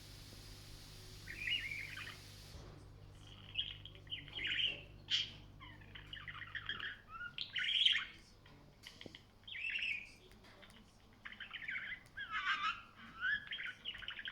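Budgerigar warbling and chattering in a run of short, quick, twittering phrases, with brief pauses between them.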